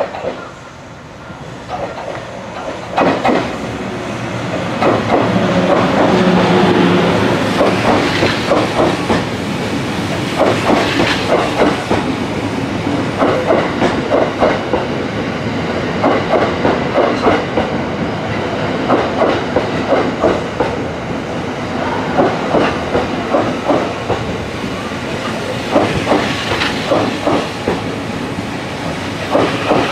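Train Suite Shiki-shima cruise train running through the station, its wheels clacking over the rail joints in repeated clusters. The sound builds over the first few seconds, then holds loud and steady.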